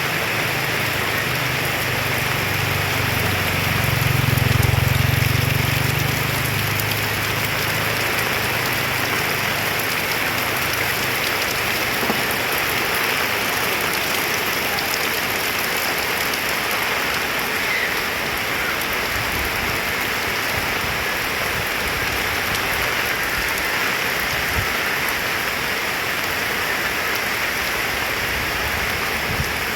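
Heavy rain falling steadily, a dense continuous hiss. A low rumble swells and fades over the first several seconds.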